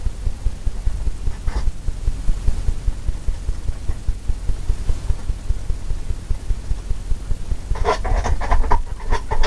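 Paintbrush scrubbing and tapping oil paint onto a canvas, heard as a rapid, uneven low thumping. A few short sharp scratchy sounds come near the end.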